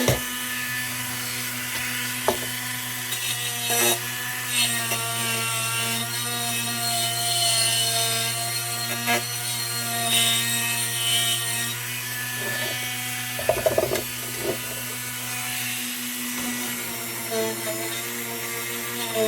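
Small electric power tool running with a steady motor hum while it scrubs paint off the lantern's metal, with scraping against the surface and a few sharp knocks about two-thirds of the way through.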